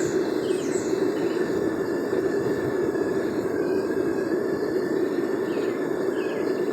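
Homemade propane burner running steadily, jetting into a furnace built from an old propane tank: a constant rushing noise with a faint steady high whine.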